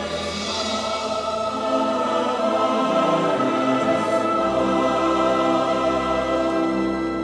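Choir singing long, held chords, with a deeper low note joining about four seconds in.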